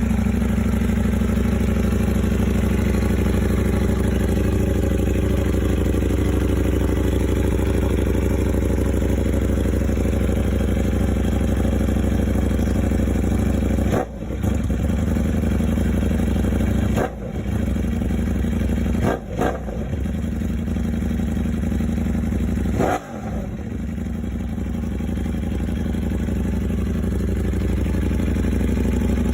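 Ducati Panigale V4's V4 engine running through an SC-Project S1 titanium slip-on exhaust, idling steadily, then blipped four times a few seconds apart about halfway through, the revs jumping up and falling back each time before it settles to idle again.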